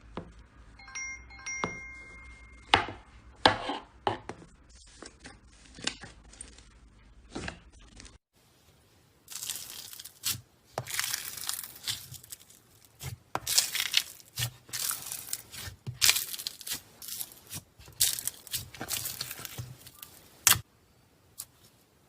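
Slime being squeezed, stretched and poked by hand, giving irregular sticky crackles, pops and tearing sounds. A few short ringing tones come near the start, and about eight seconds in it changes to a crisper, denser crackling.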